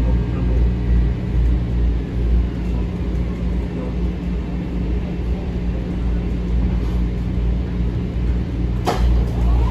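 Inside a Metro-North M7 electric multiple-unit train running on the rails: a steady low rumble with an electric hum, and one sharp knock about nine seconds in.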